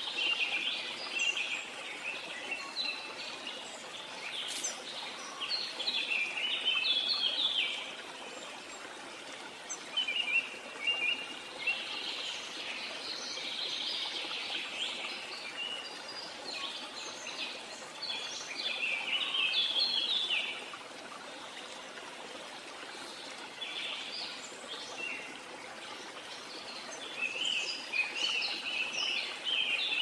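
Birds chirping in clusters of quick, high calls every few seconds over a steady background hiss.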